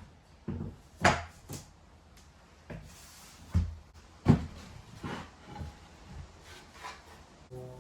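Irregular knocks and clunks of floor planks being handled and fitted into place, about eight in all, the loudest about a second in and near the middle. Music begins just before the end.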